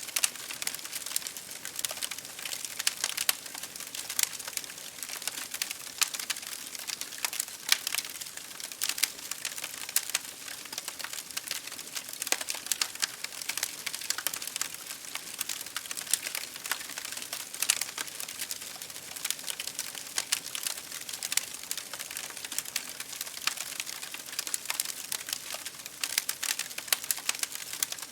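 Wood fire crackling in a fireplace, a steady stream of small irregular pops and snaps, over a continuous hiss of rain on window glass.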